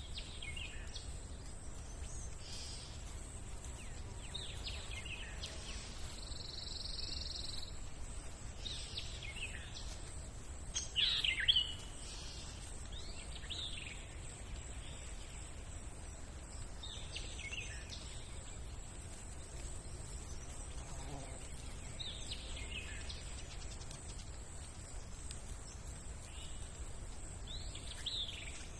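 Birds calling outdoors: short sweeping chirps every few seconds, one held whistle-like note, and the loudest call about eleven seconds in. Under them runs a steady low rumble, with a thin steady high hiss.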